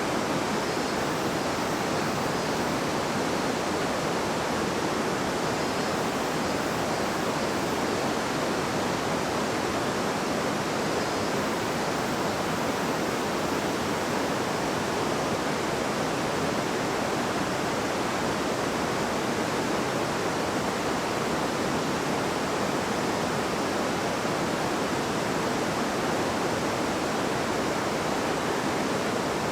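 River water babbling and rushing over stones in a steady, even flow.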